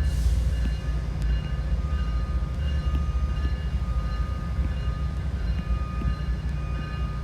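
Low, steady rumble of a train running by, with a faint steady high tone from the wheels or rails joining about a second in.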